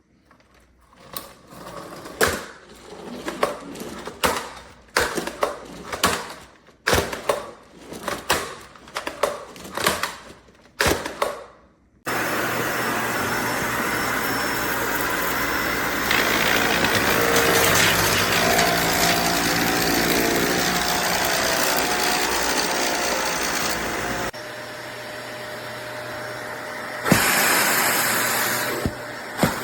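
Irregular knocks and clatters for about twelve seconds, then a Dyson Ball Animal 3 Extra upright vacuum cleaner switches on suddenly and runs steadily. Its sound drops in level about twelve seconds later and comes back up near the end.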